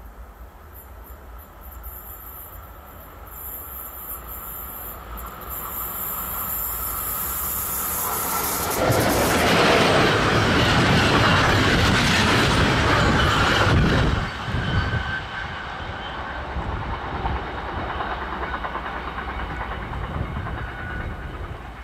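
Swiss Post train hauled by an Re 420 electric locomotive passing close. It grows from a faint high hiss to a loud rush about nine seconds in, drops suddenly about five seconds later, then runs on as a steady clickety-clack of wagon wheels as the train draws away.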